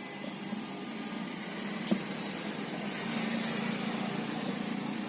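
A steady low mechanical hum, with one sharp click about two seconds in.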